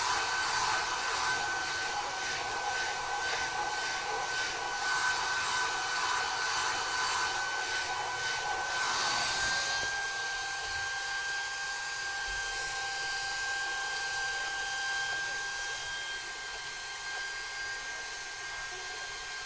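Hair dryer blowing, a steady rush of air with a high whine. About halfway through, the rushing thins and gets a little quieter while the whine steps slightly higher and keeps going.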